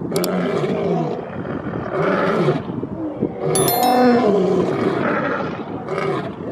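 A big cat roaring and growling over and over, a call roughly every second. A short high ringing chime sounds about three and a half seconds in.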